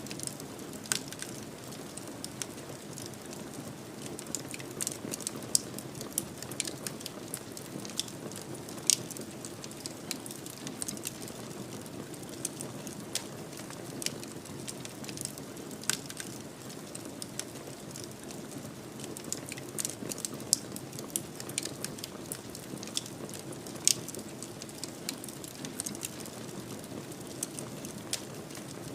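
Wood fire in a fireplace crackling: irregular sharp pops and snaps, a few much louder than the rest, over a steady low rush of the flames.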